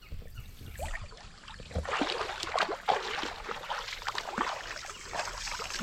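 Footsteps sloshing and splashing through shallow river water, an irregular run of steps starting about two seconds in.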